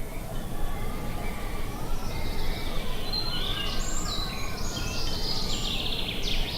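Steady wind rumbling on the microphone, with small birds chirping and trilling over it from about two seconds in to near the end.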